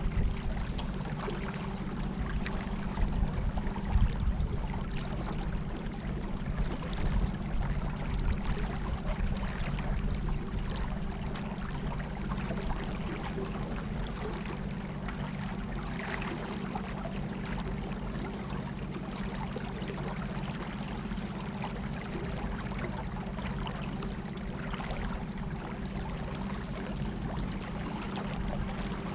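Water rushing and lapping around a small boat under way in a strong river current, with a steady low hum from its battery-powered motor.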